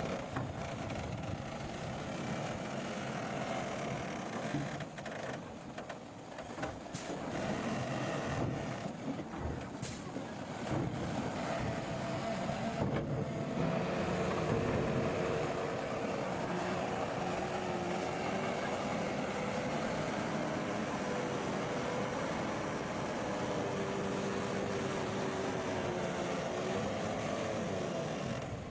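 Bulldozer's diesel engine running under load, its pitch wavering as it works, with a few short knocks.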